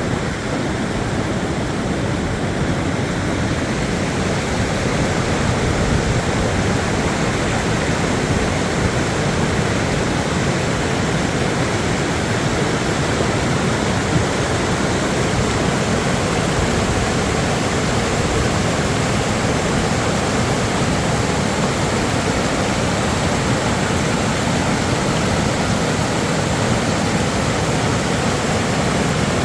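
Steady rushing roar of a swollen, fast-flowing creek in flood after heavy rain.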